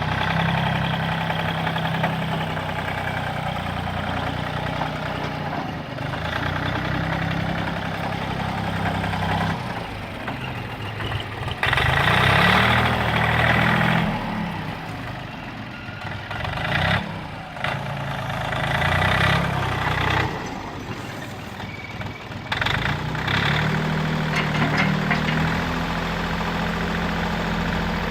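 Iseki TU175 compact tractor's diesel engine running. Its speed rises and falls several times between spells at a steadier pace.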